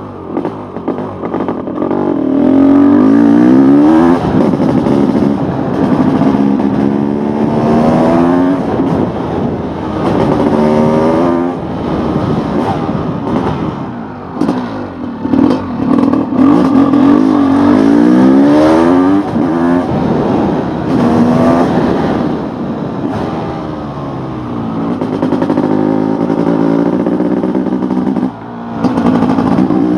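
Honda CR500 two-stroke single-cylinder engine under hard riding, its pitch climbing again and again as it accelerates and dropping back between pulls. The level dips briefly near the end.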